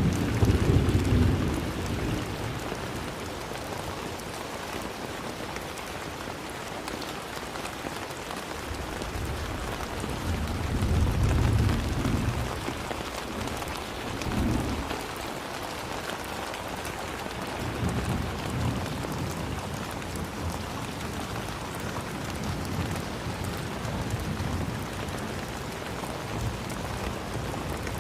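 Steady rain falling, with low rumbles of thunder at the start and again about ten seconds in, and weaker ones later.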